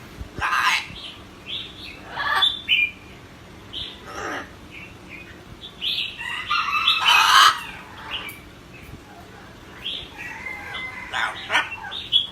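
Pet parrot giving short chirps and squawks every second or so, with a longer, louder harsh call about seven seconds in.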